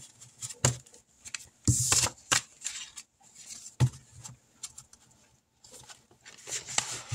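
Paper money being handled: bills rustling, with scattered light taps and clicks.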